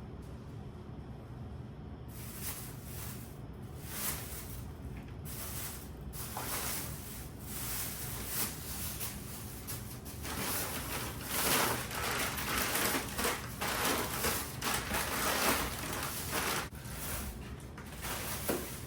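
Groceries being unpacked and handled: packaging and bags rustling and crinkling, with small knocks, starting about two seconds in and busiest in the middle.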